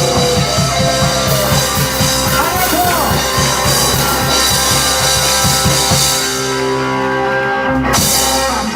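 Live rock band playing the end of a song: fast, steady drumming with electric guitar, then a held final chord from about six seconds in and a last crash near the end.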